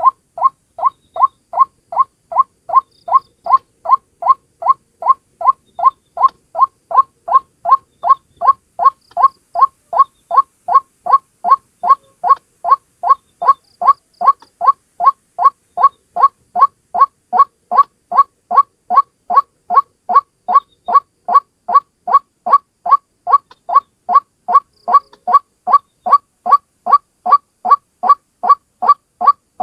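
White-breasted waterhen (ruak-ruak) calling as a lure recording: one bird repeating a short rising 'kwak' note, about two and a half notes a second, in an unbroken, even series.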